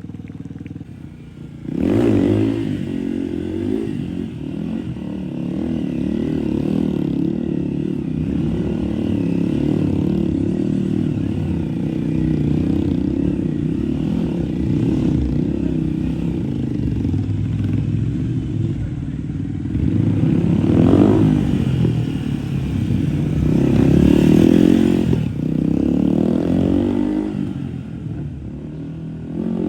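Motorcycle engine running loud, its pitch rising and falling as it is revved, with sharper rev swells about two-thirds of the way through.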